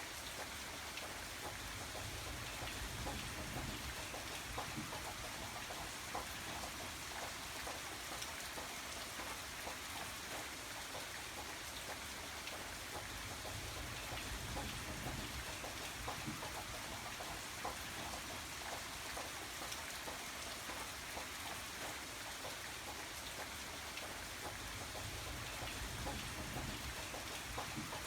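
Steady rain, with many separate drops pattering on a surface.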